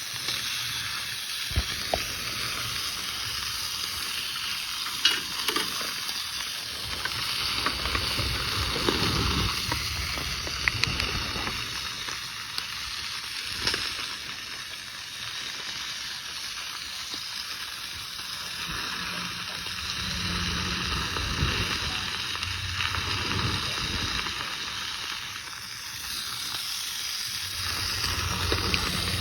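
Food sizzling in a hot pan: a steady hiss with a few faint pops.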